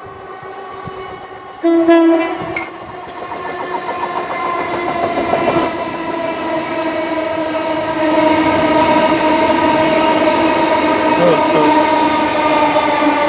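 A train sounds a short horn blast about two seconds in. A steady hum of many tones then builds and grows louder as the train approaches, loudest from about eight seconds in.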